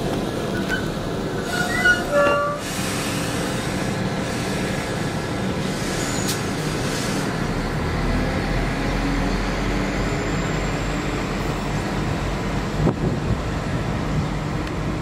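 West Midlands Railway Class 172 diesel multiple unit running along the platform. Its wheels give a few short, high squeals in the first couple of seconds, then it makes a steady running noise, with a low diesel rumble growing about eight seconds in.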